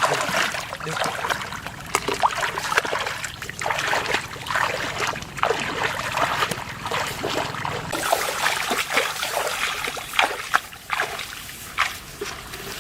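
Shallow floodwater in a rice field splashing and trickling in many short, irregular bursts, as it is stirred by hands or feet.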